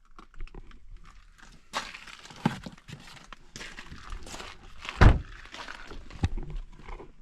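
A run of knocks, clunks and rustling from handling things inside a car, with sharper knocks about two and a half and six seconds in and a heavy thump about five seconds in.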